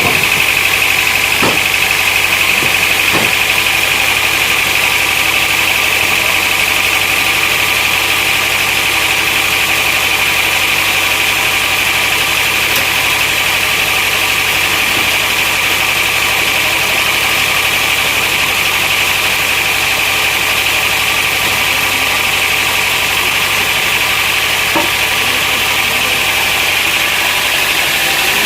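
Sawmill machinery running steadily: a constant mechanical drone with a high whine on top, and two faint knocks a couple of seconds in.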